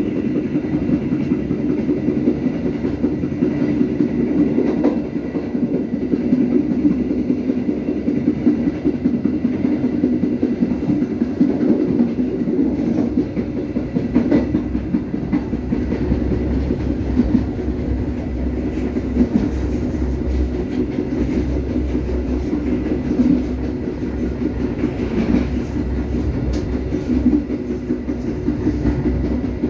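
Passenger train coach running along the track, heard at an open door at the back of the carriage: a steady rumble of wheels on rail with occasional clicks. A deeper low rumble comes in about halfway.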